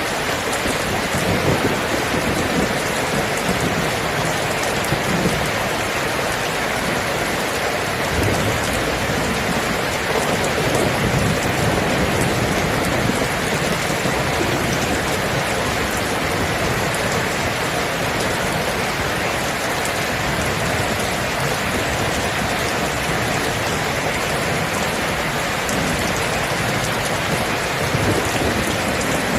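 Steady heavy rain, with low rolls of thunder rumbling now and then beneath it.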